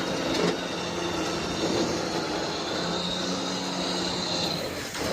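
Engine running steadily at idle, an even low hum with a haze of noise over it.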